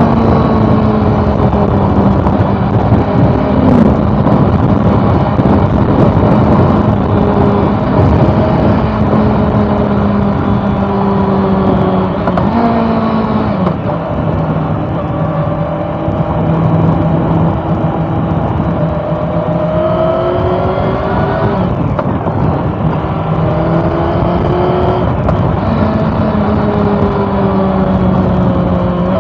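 Inline-four engine of a 2013 Honda CB400 Super Four motorcycle running under way, its note mostly steady with a few rises and sudden drops in pitch. Wind rushes over the microphone throughout.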